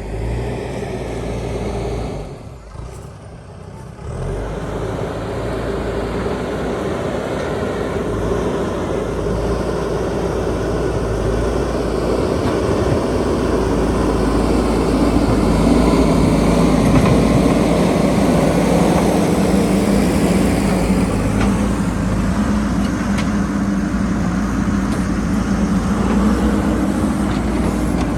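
JCB backhoe loader's diesel engine running as the machine works the road. It drops briefly just after the start, then runs harder and louder from about halfway through.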